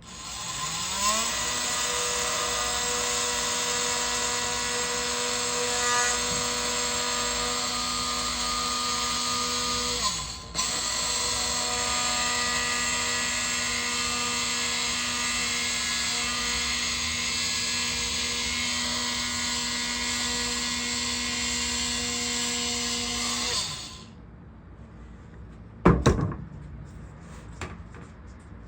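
Electric power tool motor spinning up and running steadily, cutting up a broken piece of vinyl floor tile. It stops and restarts about ten seconds in, then winds down after about twenty-three seconds. A single sharp knock comes a couple of seconds later.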